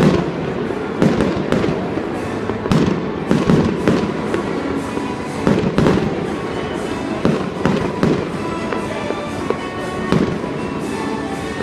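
Fireworks display: a string of irregular booms and cracks, roughly one a second, with music playing underneath.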